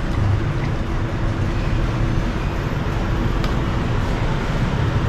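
Steady rumble of road traffic with a constant low hum.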